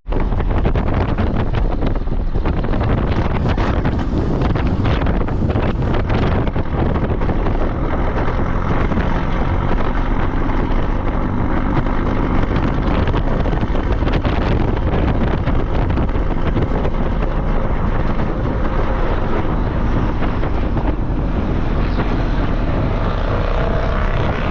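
A vehicle on an off-road trail, its engine running steadily with wind buffeting the microphone, and a few knocks and jolts in the first few seconds.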